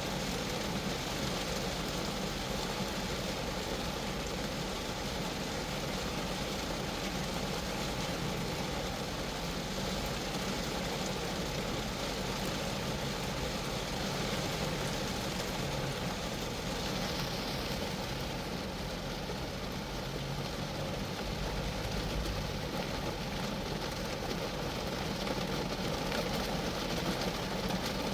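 Steady rain falling on a Geo Metro, an even hiss of drops on the car's body, growing a little louder near the end.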